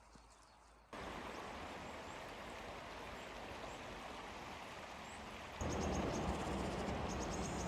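Steady rushing of a flowing stream that comes in abruptly about a second in and gets louder near the middle, with small birds chirping in quick high bursts over it in the second half.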